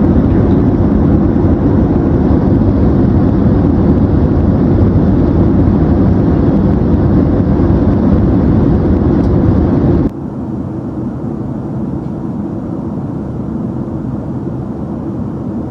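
Steady cabin noise inside a Boeing 767-300ER airliner in flight, a deep rumble of engines and airflow. About ten seconds in it suddenly drops in level and turns duller.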